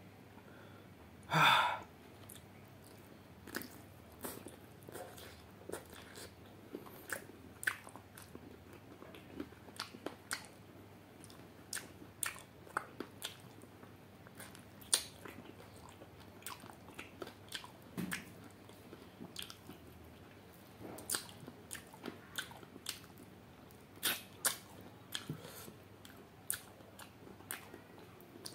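Close-up eating sounds: wet mouth smacks and chewing of chicken curry and rice eaten by hand, with many short clicks scattered irregularly throughout. A brief louder noise about a second and a half in stands out above the rest.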